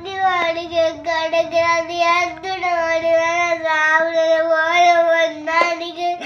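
A child crying loudly in long, drawn-out wails, each held note broken only by a short catch of breath.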